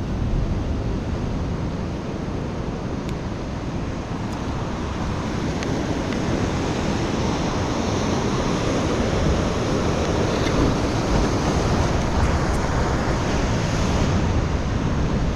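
Pacific surf washing steadily against the shore rocks, swelling slowly, with wind buffeting the microphone.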